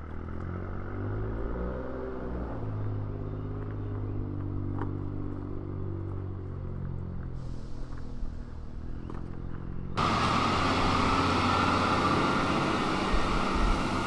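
Diesel pickup truck engine idling, its revs rising briefly about a second in and then settling. About ten seconds in, a louder, steady rushing noise with a high whine in it cuts in abruptly.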